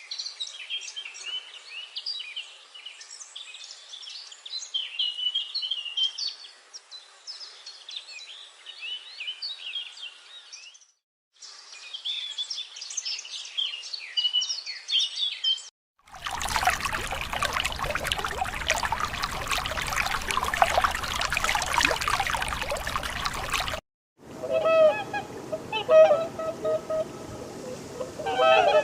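Small birds chirping in a dense chorus for about sixteen seconds, with a short break partway. Then comes a loud, even rushing noise for about eight seconds, and after it, repeated honking calls of a bird that go on to the end.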